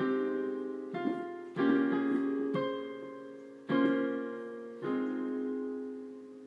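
Closing piano chords ending a song: about six chords struck one after another, each fading, with the last one left to ring out and die away.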